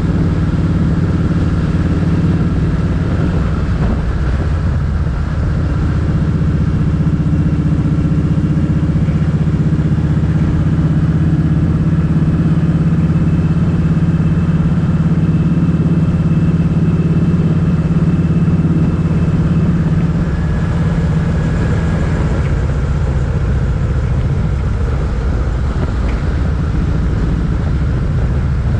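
Motorcycle engine running steadily at cruising speed while riding, its note dropping slightly about twenty seconds in.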